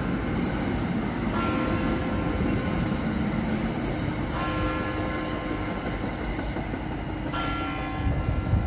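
NJ Transit commuter train rolling past on elevated track: a steady rumble of wheels on rail with high-pitched wheel squeal that sets in afresh about every three seconds. Near the end a louder low rumble rises.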